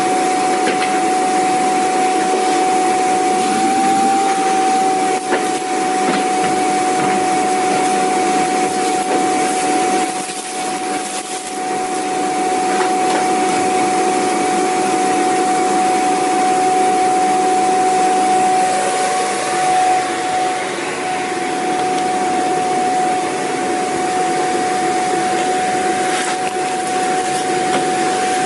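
Vacuum cleaner running continuously: a steady high motor whine over the rush of airflow, briefly dipping in level about ten and twenty seconds in.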